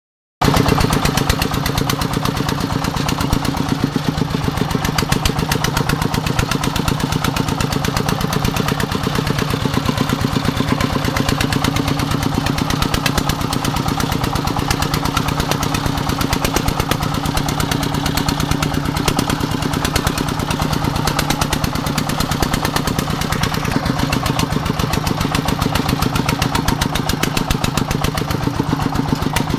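Single-cylinder diesel engine of a Vietnamese công nông farm vehicle running steadily, with a fast, even beat.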